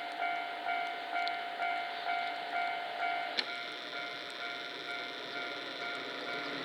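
Railway level-crossing warning bell ringing in a steady repeating beat, about two strikes a second, as a train approaches; its tone changes about halfway through.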